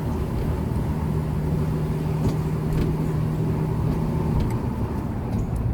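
Car driving along at a steady speed, heard from inside the cabin: a constant low engine and road rumble with a steady hum.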